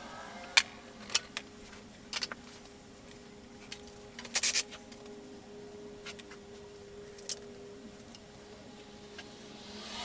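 Scattered sharp metallic clicks and clinks of hand tools and small fasteners being handled, with a double clatter about halfway through, over a faint steady hum.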